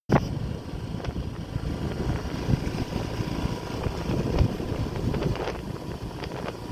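Wind buffeting the microphone outdoors, a steady low rumble with a few small clicks.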